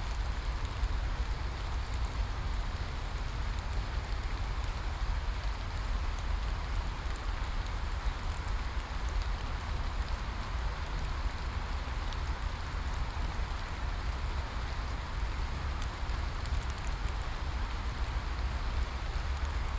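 Steady rain falling and pattering on a surface, an even hiss with scattered small drop ticks and a low rumble underneath.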